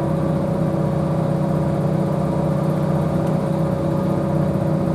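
Diesel multiple unit (Northern Class 156 coupled to a Class 150) running along the line, heard from on board: a steady engine and running drone with a couple of held steady tones over it.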